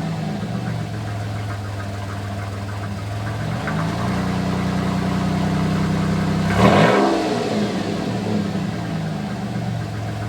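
1987 Camaro's 2.8-litre V6 running through a straight-piped exhaust, the revs creeping up slightly a few seconds in. About two-thirds of the way through there is one quick blip of the throttle, a sharp rise and fall in pitch, before it settles back to a steady low-rpm run.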